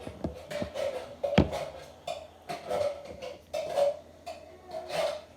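A spoon stirring glue-and-activator slime in a bowl: repeated stirring strokes with clicks of the spoon against the bowl, and one sharper knock about a second and a half in.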